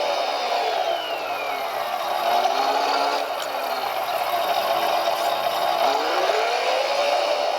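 Electric motors and gearing of a radio-controlled construction model whining, the pitch dropping over the first few seconds and climbing again near the end as the throttle changes.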